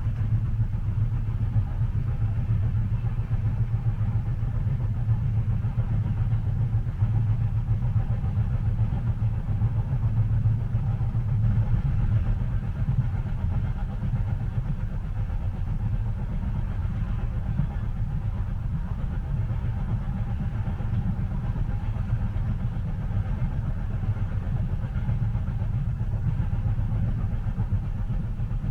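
Steady low rumble of a train carriage interior in motion, even and unbroken, with a faint hiss above it.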